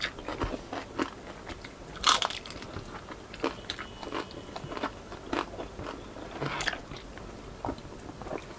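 Crisp bites and crunching of deep-fried pork crackling (lechon kawali skin) being eaten, with chewing between irregular crackles; the loudest crunch comes about two seconds in.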